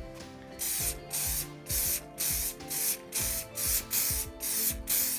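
Aerosol tin of Muc-Off Fabric Protect spraying a motorcycle jacket in a quick run of short hissing bursts, about two a second, starting just under a second in.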